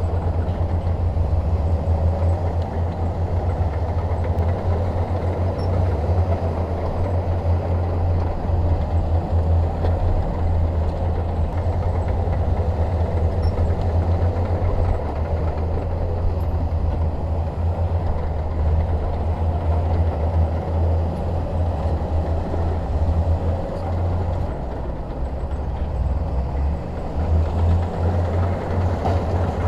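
Diesel engine of a Shantui DH17 crawler bulldozer running steadily, a deep continuous rumble that dips briefly a little before the end.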